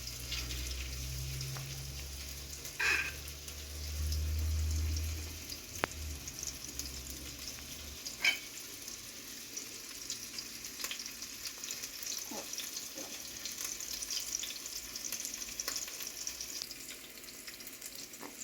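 Chicken tenderloins sizzling in hot olive oil in a skillet, a steady frying hiss with a few sharp clicks. A low rumble underneath stops about eight seconds in.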